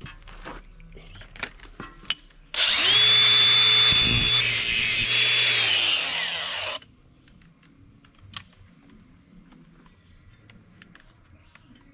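Battery-powered handheld power tool running for about four seconds as welds on a steel part are cleaned up: it starts suddenly at full speed with a high whine and gritty hiss, dips briefly partway through, then winds down. A few faint handling clicks come before it.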